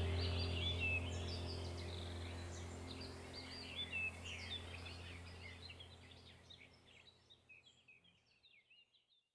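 Several birds chirping over a steady low hum, the whole sound fading out to silence near the end.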